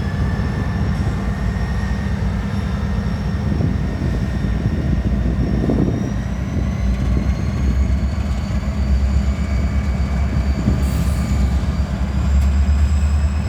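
Diesel freight locomotive and train moving, a steady low engine rumble with thin whining tones that rise slowly in pitch; the rumble grows louder near the end.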